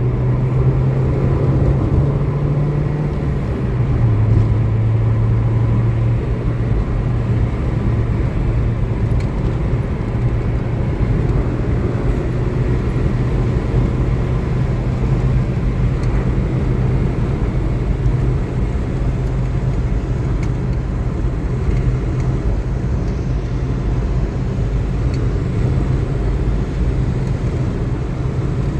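Car engine running while driving, a steady low drone with road noise; the engine pitch drops about three to four seconds in, then holds.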